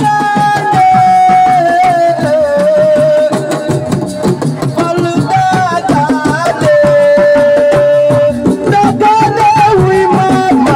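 Live assiko band music: a singer holding long, wavering notes over fast, dense drumming.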